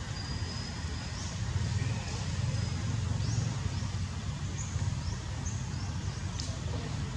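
Thin, high bird chirps, short upward-sweeping notes a few times over several seconds, over a low steady rumble.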